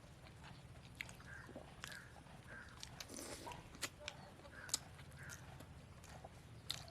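Faint sounds of people eating poori with chicken kurma: chewing and biting, with scattered small clicks.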